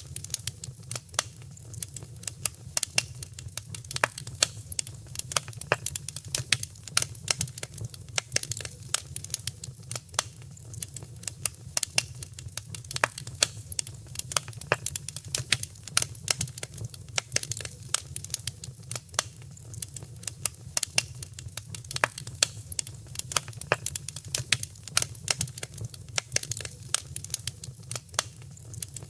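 Wood fire crackling steadily, with many irregular sharp pops and snaps over a low, steady rumble of the flames.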